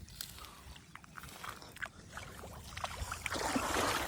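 Pond water sloshing and splashing as a wading man handles a cage fish trap, with a few small knocks; the splashing swells louder about three seconds in.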